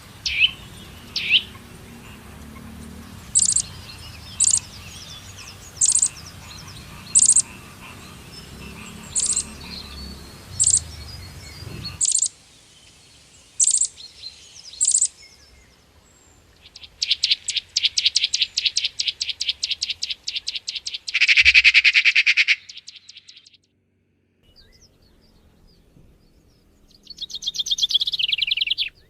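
Birds calling: a short, sharp high note repeated about once a second over low background noise, then, after a sudden drop in the background about twelve seconds in, long rapid trills, with a shorter trill near the end.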